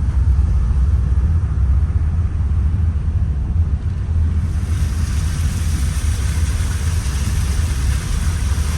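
Steady low rumble of a car's engine and tyres heard from inside the cabin while driving; a steady hiss joins about halfway through.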